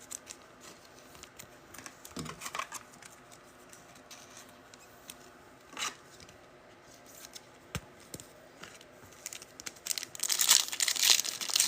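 Scattered faint clicks and rustles of trading cards being handled, then, near the end, a loud stretch of a trading card pack's foil wrapper being torn open and crinkled.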